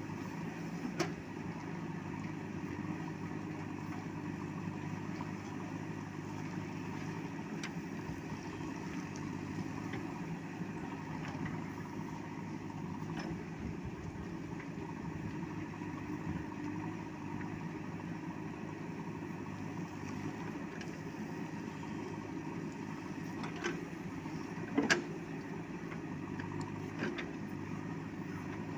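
JCB backhoe loader's diesel engine idling steadily. A few short sharp knocks cut in, the loudest near the end.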